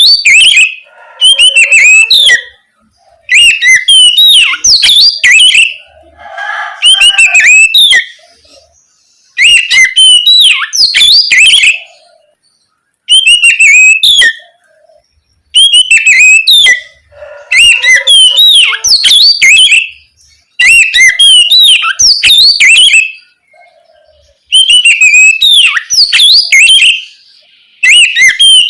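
Oriental magpie-robin (kacer) singing loud, open 'ngeplong' song: phrases of fast, varied whistles and trills, each two to three seconds long, repeated after short pauses, some with a lower, rougher chatter mixed in.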